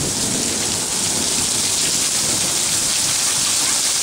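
Heavy storm downpour: rain pouring down in wind-blown sheets onto the street and yard, a loud, steady, even hiss.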